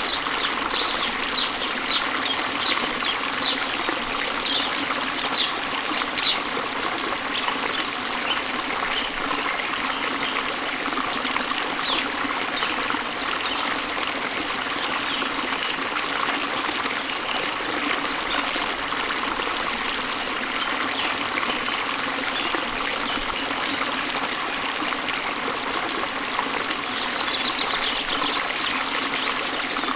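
Steady rush of flowing water from a waterfall or stream. Over it a bird gives short, high chirps about twice a second for the first several seconds, with fainter chirps later and again near the end.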